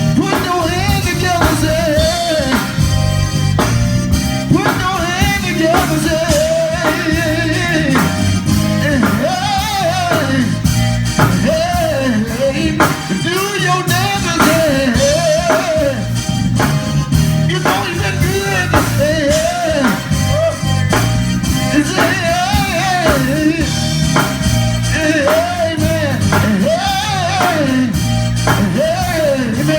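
Church praise music: singing over a band with a drum kit, with a steady beat.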